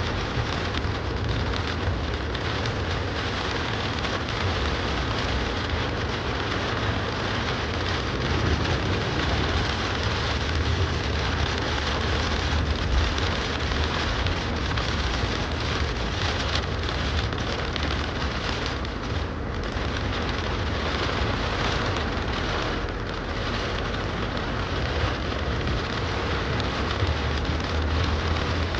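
Rain pelting a car driving through a thunderstorm, with a steady low rumble of engine and road noise underneath.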